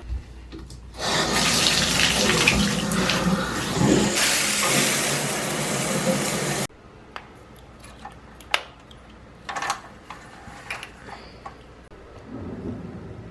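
Water running hard for about five and a half seconds, then cutting off abruptly, followed by a few light clicks and knocks.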